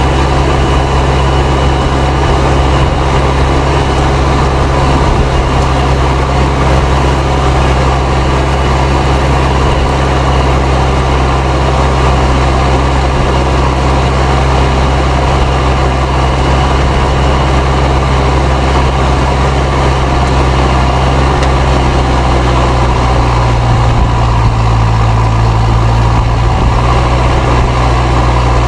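Fendt 307 Ci tractor's turbocharged diesel engine running steadily, with a thin, steady turbo whistle above the engine note. The engine note shifts slightly near the end.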